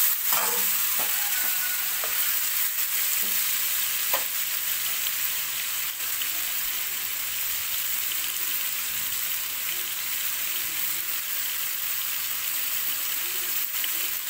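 Chicken pieces with chopped tomato, green chili and onion sizzling steadily in hot oil in a wok, stirred with a wooden spatula at first, then left frying.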